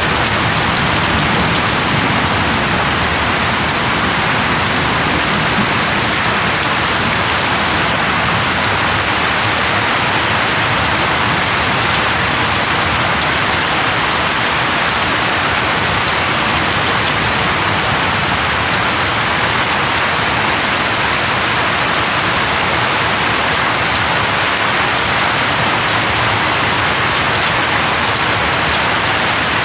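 Steady, even rain hiss on surfaces, with the low rumble of a thunderclap dying away in the first second.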